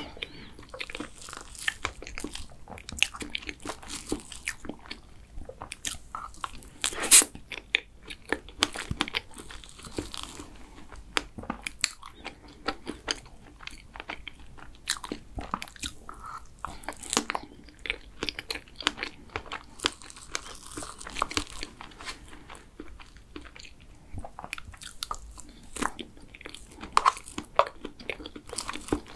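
Close-miked eating sounds of chocolate cake with strawberries: soft chewing and mouth smacks, broken by irregular clicks of a spoon against the clear plastic cake box. The sharpest click comes about seven seconds in.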